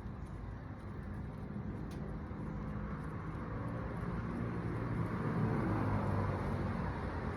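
A nearby vehicle engine running steadily, slowly getting louder over the last few seconds as if drawing closer, with a light click about two seconds in.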